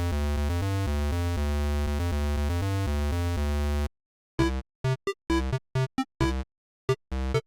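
Synthesizer music: a steady electronic tune of changing notes for about four seconds, then a string of short, separate notes with silences between them.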